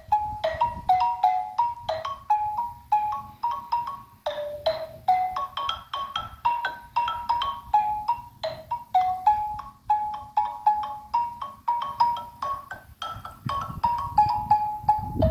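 Xylophone played with mallets: a steady run of single struck notes, about three a second, stepping up and down among a few nearby pitches in a simple repeating tune.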